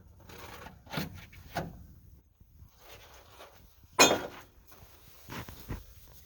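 Hand tools and metal parts being handled and knocked about during repair work: a scatter of short knocks, clunks and scrapes, the loudest a sharp clank about four seconds in.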